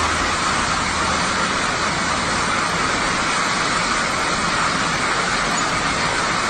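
A vehicle running, a loud, even noise that holds steady with no change in pitch and starts abruptly.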